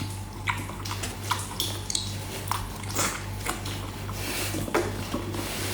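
Repeated short clicks and clinks of eating, as of dishes and utensils being handled, over a steady low hum.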